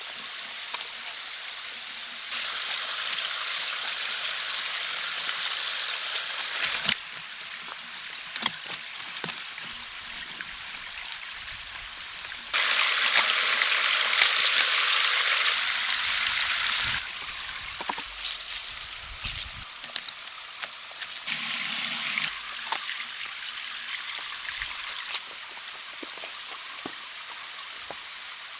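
Steady rain falling, a hiss with scattered drips and small knocks. Three times the rain gets louder for a few seconds, then drops back suddenly.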